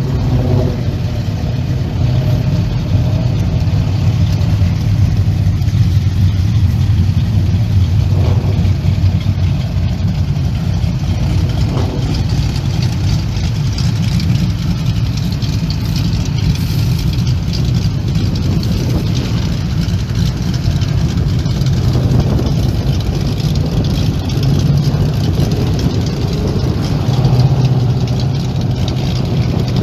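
Car engines running and idling with a steady low rumble.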